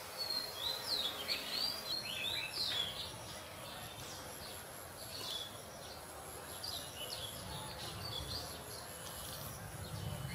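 Birds chirping: a quick run of sweeping calls in the first three seconds, then scattered shorter chirps, over steady outdoor background noise.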